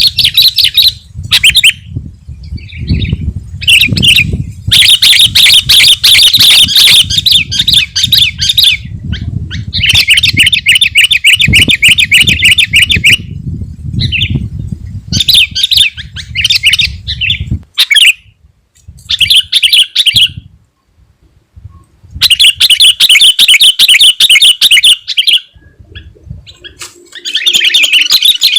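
Sooty-headed bulbul singing vigorously in repeated bursts of rapid, trilled chattering, each a few seconds long, with short pauses between. A low rumble runs underneath until about two-thirds of the way through.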